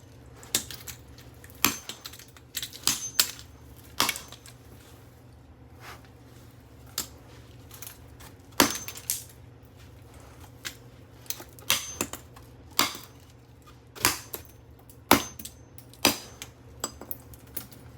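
Irregular metallic clicks, clatter and sharper knocks from a stripped microwave motor being handled and struck, over a steady low hum.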